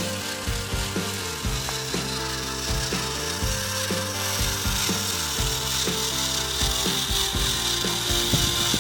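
Small electric motor and gearbox of a radio-controlled model tractor running, its whine gliding up and down in pitch as the speed changes, with frequent clicks and rattles from the gears and body.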